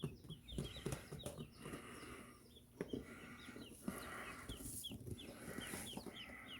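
Baby birds peeping: many short, high peeps, several a second, with soft rustling and knocking beneath.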